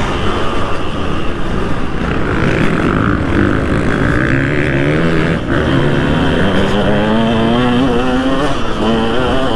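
2003 KTM 200 SX two-stroke motocross engine at race pace, revving up and down as the throttle opens and closes, with a brief dip about five and a half seconds in.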